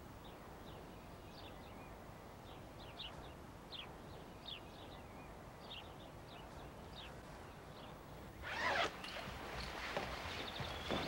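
Faint, short, high chirps of small birds, scattered over a quiet background hiss. Near the end comes a louder rustle of a heavy padded jacket being pulled off.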